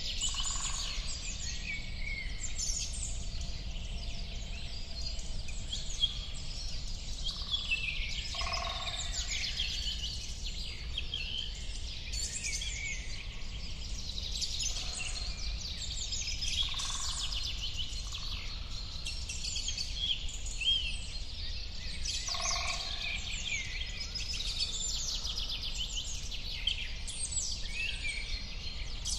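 A chorus of many songbirds singing at once: dense, quick high chirps and warbles that go on without a break, over a steady low rumble.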